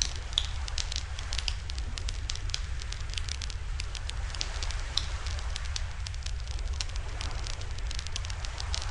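Wood campfire crackling in a portable barbecue fire stand, with many irregular sharp pops and snaps over a steady low rumble.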